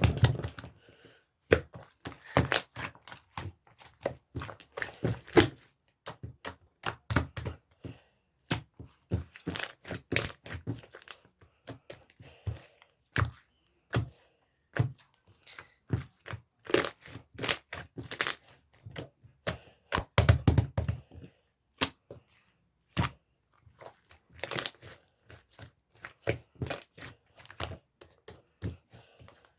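Hands squishing and stretching a thick slime, giving irregular sharp sticky pops and crackles, some in quick clusters.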